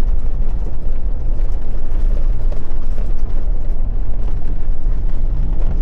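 Pickup truck carrying a camper driving on an unpaved road: a steady low rumble of tyres and engine.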